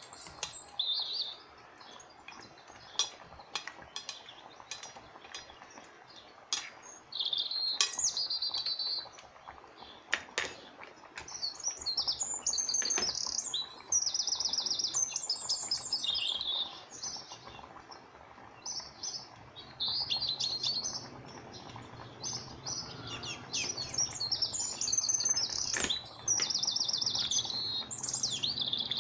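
Small birds chirping in quick repeated high trills, in bursts of a second or two through the whole stretch. A few sharp clicks and knocks of cooking utensils against a pot sound in between.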